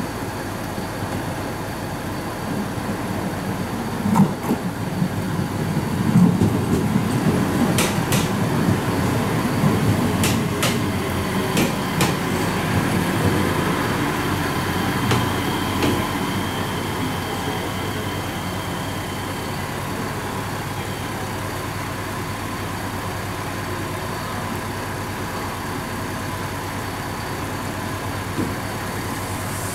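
Electric train running along a station platform: a low rumble of wheels on the rails swells for several seconds, with several sharp clicks and a faint high whine, then dies down to a steady hum of a train standing at the platform.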